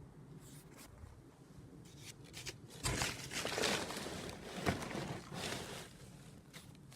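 Cardboard crunching and tearing for about three seconds, with two sharp knocks, about three seconds in and near five seconds in.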